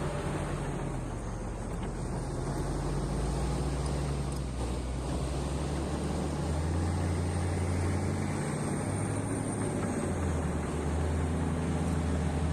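Heavy diesel engine of mine earthmoving equipment running steadily, with low engine tones that shift in strength about halfway through and again near the end.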